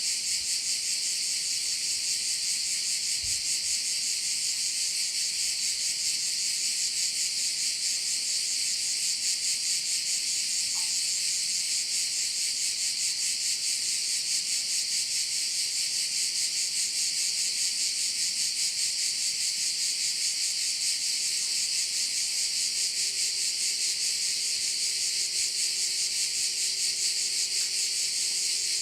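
Dense chorus of cicadas, a steady shrill buzz with a fine rapid pulse. A faint low hum joins about two-thirds of the way through.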